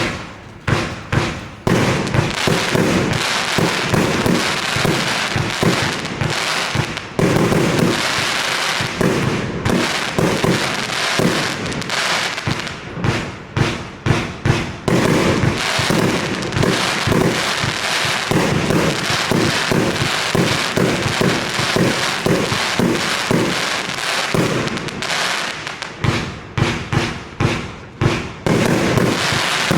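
An Evolution Fireworks Snow Storm (2619), a consumer F2 firework battery, firing: dozens of shots and bursts in rapid succession, with a continuous crackling hiss between them.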